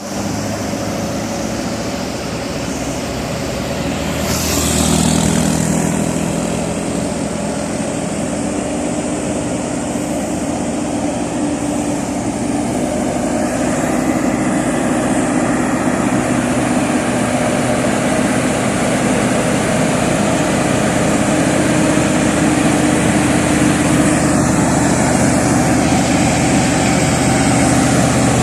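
Mitsubishi Fuso Super Great V8 twin-turbo truck engine running steadily while pulling a lowboy trailer, with a brief hiss about four seconds in.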